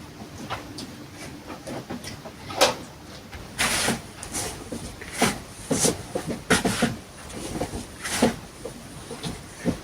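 Irregular knocks, clunks and short scrapes, as of objects being handled and set down. The loudest is a sharp knock a little under three seconds in, followed by a longer scraping sound about a second later.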